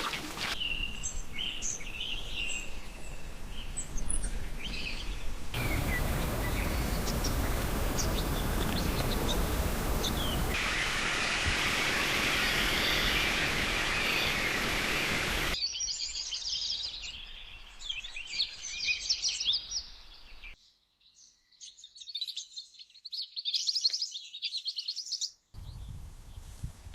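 Wild birds chirping and calling outdoors, in a series of clips whose background changes abruptly every few seconds. A loud steady rushing noise fills the middle stretch, and near the end a busier run of high chirps and trills plays over almost no background.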